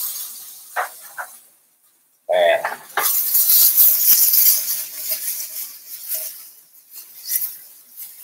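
Tomatoes sizzling in hot oil in a skillet as the pan is lifted and tossed; the sizzle swells about three seconds in and fades toward the end. The tomatoes are taking colour but their skins have not yet split.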